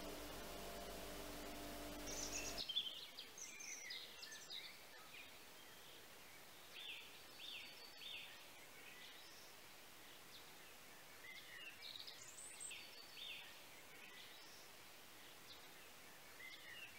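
Quiet room tone with a steady low hum for the first two and a half seconds, then songbirds chirping: short high calls in scattered groups, with a run of quick repeated notes near the middle.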